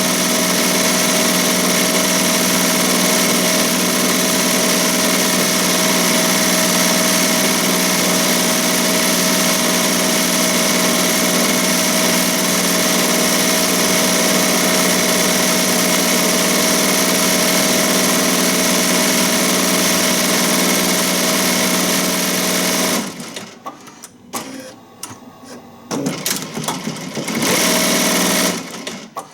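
ZSK Sprint 10-needle commercial embroidery machine stitching at high speed, a steady mechanical hum. About three-quarters of the way through it stops, with a few short stop-start spurts and one more brief run near the end.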